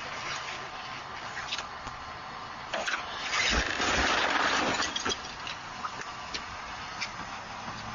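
Vehicle road noise as heard on a dashcam, with scattered clicks and a louder rushing swell lasting about a second and a half, midway through.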